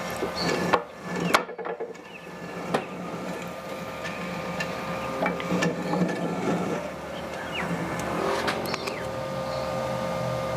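Scattered knocks, clicks and scraping of parts and tools being handled at a workbench, the sharpest knocks about a second in, over a steady machine hum.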